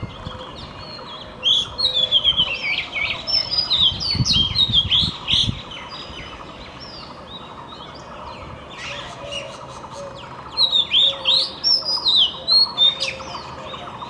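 Magpie-robin singing: two runs of quick, varied whistled notes, the first starting about a second and a half in and the second about ten seconds in, with fainter bird calls between.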